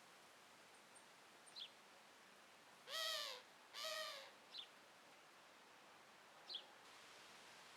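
An animal calls twice in quick succession, each call a short rising-then-falling cry, amid a few faint, short, high bird chirps.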